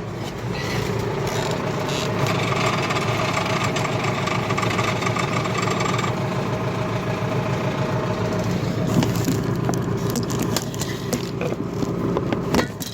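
Tractor engine running steadily, its tone changing about halfway through, with several metallic knocks and scrapes in the last few seconds.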